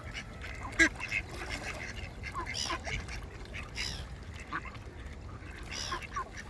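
Ducks calling, short quacks and calls scattered irregularly through, with a few higher, drawn-out calls.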